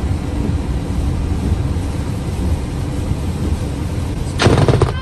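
Steady road and engine rumble from a moving vehicle, then near the end a sudden loud crack of a lightning strike hitting the truck, lasting about half a second.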